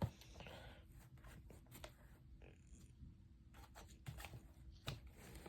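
Faint handling noise: a few light clicks and soft rustling, with a sharper click near the start and another a little before the end, over a faint steady hum.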